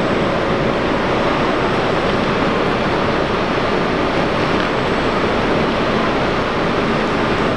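Double-deck SJ electric passenger train standing at the platform, giving off a steady, loud rushing noise.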